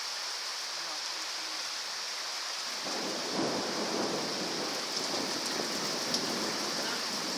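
Heavy rain pouring steadily, with a long rumble of thunder coming in about three seconds in and rolling on.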